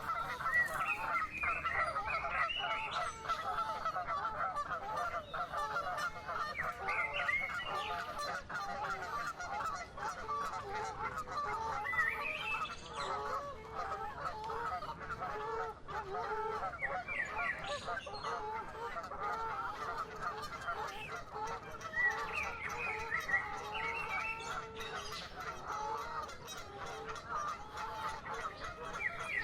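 A dense, continuous chorus of many waterbirds calling over one another, goose-like honking, with higher single chirps breaking through now and then.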